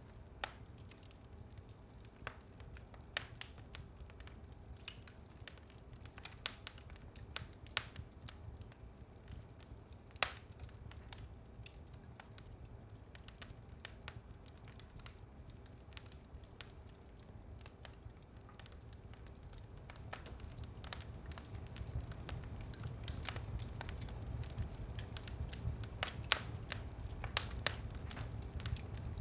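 Wood fire burning in a fireplace: a steady low rumble of flames with scattered sharp crackles and pops, growing louder and busier in the last few seconds.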